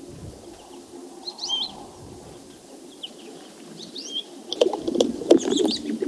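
Small birds chirping in short, curving calls every second or so, with a faint background hush. From about two-thirds of the way in, a run of sharp clicks and rustling becomes the loudest sound.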